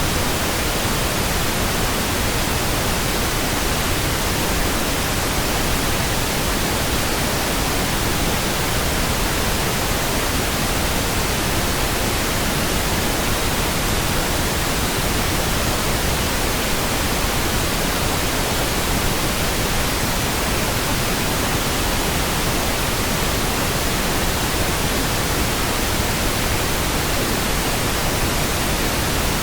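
Steady synthetic pink noise: an even, unchanging hiss spread across the whole range from low to high, with no events or changes.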